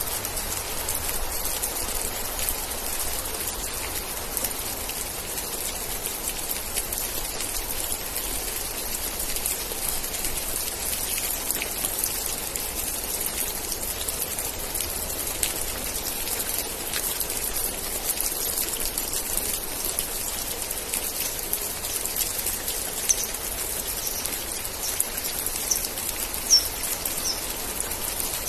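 Steady rain, with dense drops pattering and hissing. A few short, high chirps come through near the end.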